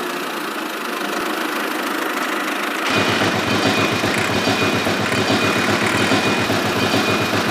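A motor running steadily. About three seconds in it gets louder and takes on a fast, even low throb.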